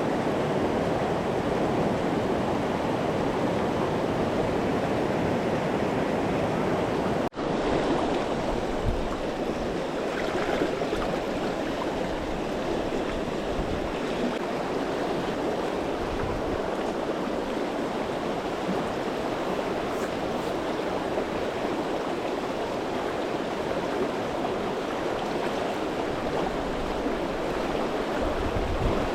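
River water rushing steadily over the riverbed. The sound breaks off for a split second about seven seconds in, then carries on.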